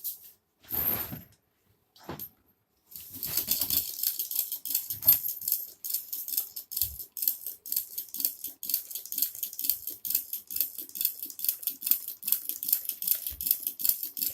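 Small homemade hot air (Stirling) engine running, its moving parts clattering in a fast, even rattle that starts about three seconds in. The builders put the noise down to loose parts knocking up and down in holes drilled too large.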